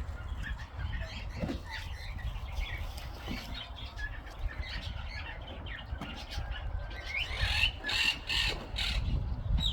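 Birds chirping and calling in short, scattered notes, with a louder run of calls about eight seconds in, over a steady low rumble.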